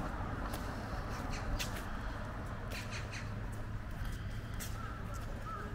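Harsh calls of a corvid, several short sharp cries scattered through, over a steady low hum, with a few short chirps near the end.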